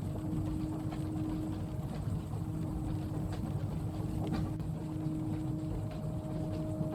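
Inside a moving train carriage: a steady low rumble of the running train with a faint hum that fades in and out, and a few light clicks.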